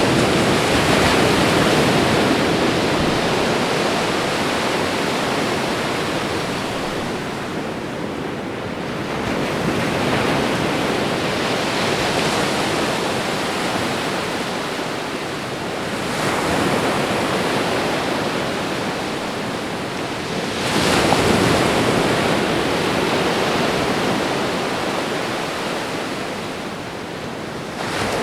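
Ocean waves washing onto a shore: a steady rush of surf that swells and falls away every several seconds as each wave comes in.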